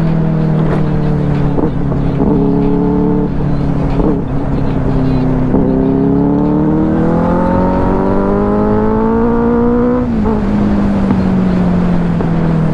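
Benelli 600i motorcycle's inline-four engine running while riding, over wind rush. The engine pitch rises steadily for about four seconds as it accelerates, then drops sharply about ten seconds in.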